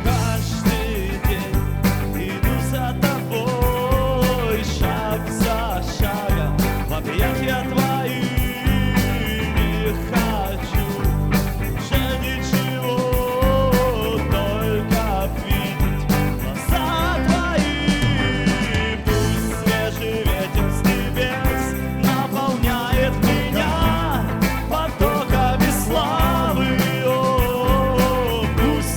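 Rock-style band music with a steady drum beat, bass and a melodic lead line.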